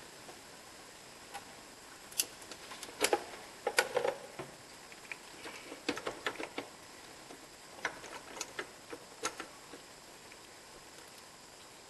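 Hand tools and metal parts clicking and clinking irregularly during engine work, a scatter of light knocks that comes thickest in the middle and thins out toward the end.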